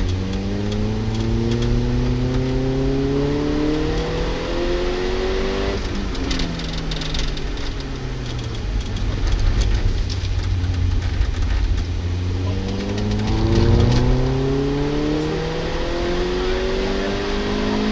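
Peugeot 206 S16's four-cylinder engine heard from inside the cabin, climbing in pitch under hard acceleration for the first several seconds. It drops about six seconds in and runs lower for a while, then climbs again through a gear change in the last few seconds, over steady road noise.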